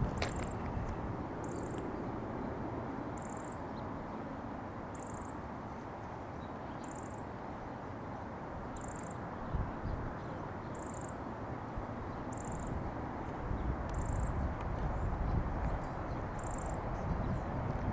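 Outdoor ambience: a steady low rumble, a little louder near the end, with a small bird giving a short, high chirp about every two seconds.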